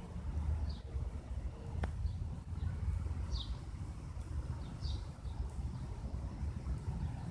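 A bird chirps in short, high notes every second or so over an uneven low rumble of wind on the microphone; a single click sounds about two seconds in.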